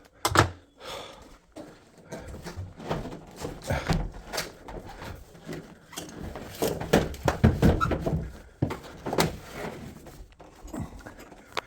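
Irregular knocks, thuds and clatter of drum washing machine parts being handled during disassembly and reassembly.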